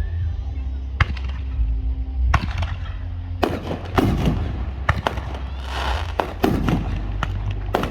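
Aerial fireworks bursting: a few separate bangs in the first seconds, then a quick run of explosions from about three and a half seconds in, with a crackling burst near six seconds.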